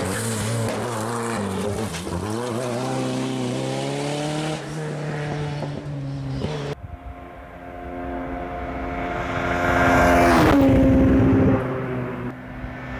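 Rally car engines at full throttle on a stage, revving up and down through the gears. About halfway through the sound cuts to another car that approaches and passes close by, loudest just before its engine note drops as it goes past.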